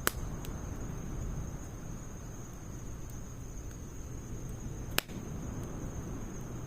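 Firewood burning in a Snow Peak fire pit: a steady low rush with faint crackles, and two sharp pops, one at the very start and one about five seconds in.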